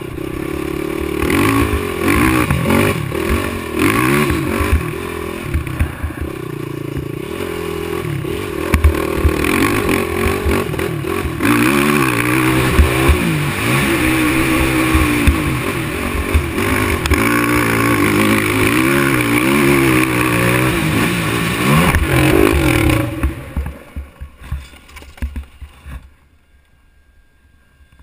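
Yamaha YFZ450R quad's single-cylinder four-stroke engine running with a broken exhaust, revving up and down over and over. The engine sound falls away about 23 seconds in.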